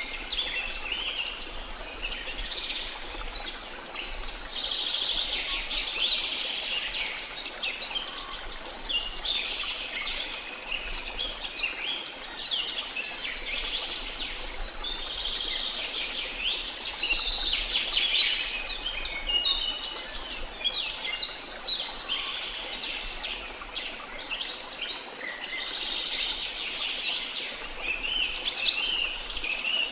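A chorus of many birds chirping and trilling over one another without a break, over a faint steady rush of falling water.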